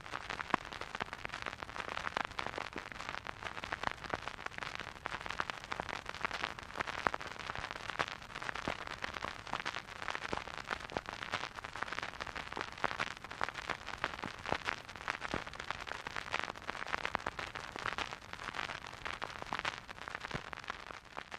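Record player's stylus riding a spinning vinyl record with no music: steady surface hiss with dense crackles and pops.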